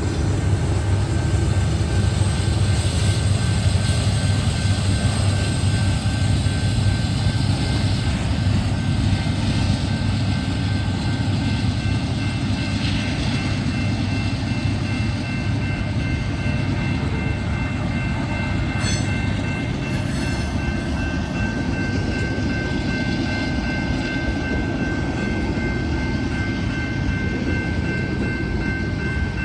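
Freight train of tank cars rolling past, a steady low rumble of wheels on rail. From about a third of the way in, a thin, steady, high-pitched wheel squeal rides over it.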